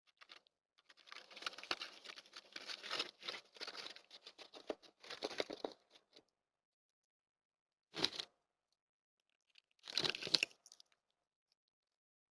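Crackly crunching and tearing from a deer eating: a dense run of quick bursts for about five seconds, then two short bursts after a pause.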